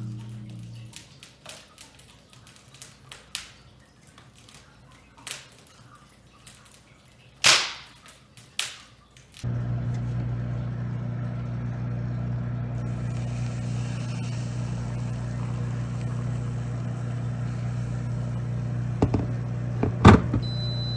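Wood fire in a fireplace crackling with scattered sharp pops, the loudest about seven and a half seconds in. About nine seconds in, a steady low hum sets in, with a few more pops near the end.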